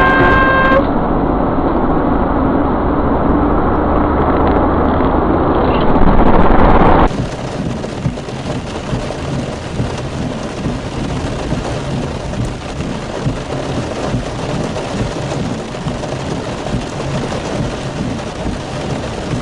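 Loud, steady rumbling road and wind noise from a vehicle in motion, with no distinct impact. It swells, then cuts abruptly about seven seconds in to another steadier stretch of the same kind of noise.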